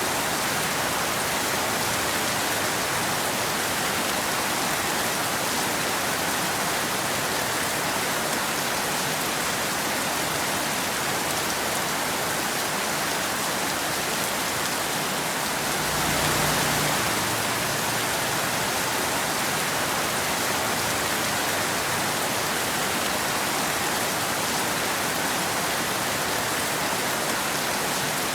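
Steady rain falling in an even hiss, swelling briefly a little louder about halfway through.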